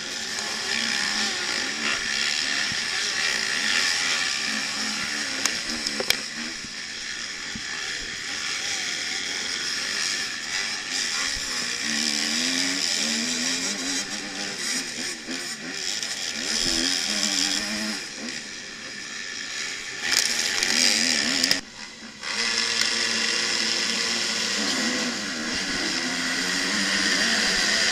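Several motocross bike engines running and revving together, their pitches rising and falling as the riders work the throttles, with a brief break about 21 seconds in.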